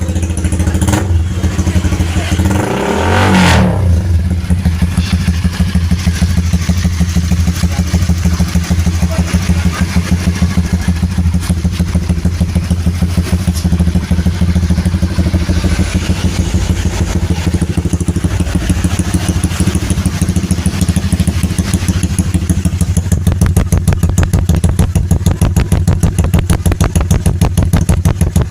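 Honda CBR150R single-cylinder engine idling through a Norifumi-style aftermarket racing exhaust, with one quick rev about three seconds in.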